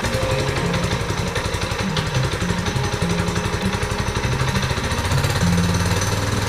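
Small single-cylinder 6.5 hp Lifan petrol engine of a homemade fat-tyre dirt bike running under throttle, a fast, even pulsing beat that rises and falls a little with the revs.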